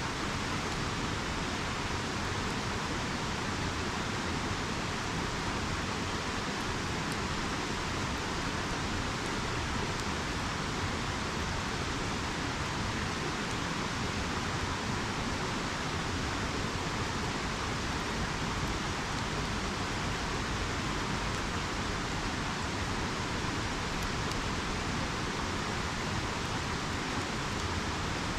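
Steady rushing of a river, an even wash of water noise that does not change, with a few faint crackles from a campfire.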